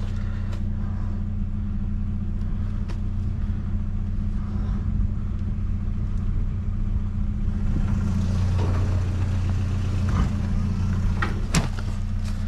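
A vehicle engine idling steadily, with a few sharp clicks and clacks of items being handled, the loudest near the end.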